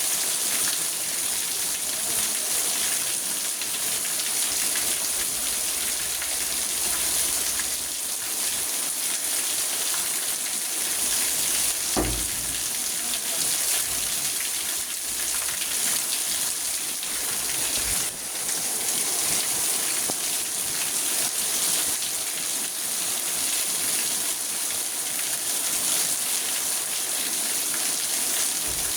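Rain falling on a car's roof and windows, heard from inside the cabin as a steady hiss, with a single dull thud about twelve seconds in.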